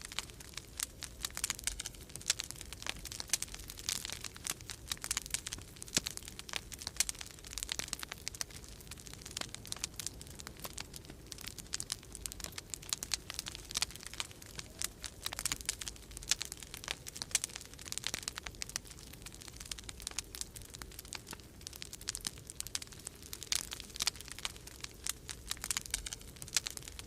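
Wood fire crackling in a fireplace, with dense, irregular pops and snaps, over a steady low rumble of winter storm wind.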